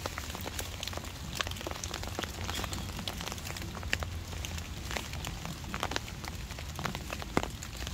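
Steady rain falling on a heavy, soaking-wet canvas tarp and the leaf litter around it, with many scattered sharp ticks.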